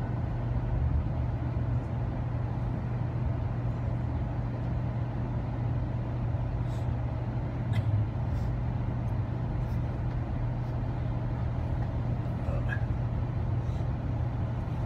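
Steady train running rumble with a low drone, heard from inside a dome car as a CN freight train passes on the adjacent track. A few faint clicks come around the middle.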